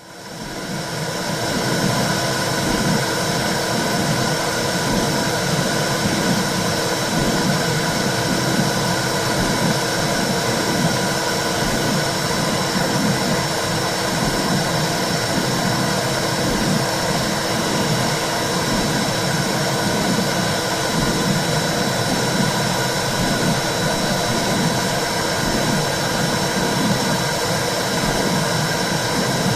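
Womb-sound recording for soothing a baby: a steady low whooshing noise with an uneven low pulsing under it. It fades in at the start.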